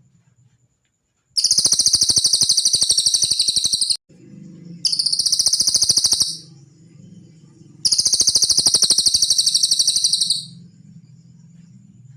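Cililin bird song: three long, high-pitched trills made of very rapid pulses, the first and last nearly three seconds each, the middle one shorter, with short gaps between them.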